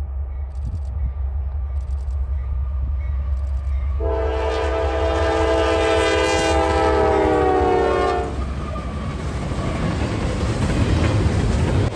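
Norfolk Southern diesel freight locomotives rumbling as they approach, with the lead unit's air horn sounding one long blast from about four seconds in that drops slightly in pitch as the engine passes. The horn stops about eight seconds in, giving way to the rolling clatter of double-stack intermodal cars' wheels on the rails.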